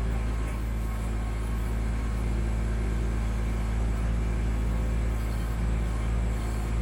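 Kubota B2650 tractor's three-cylinder diesel engine running steadily.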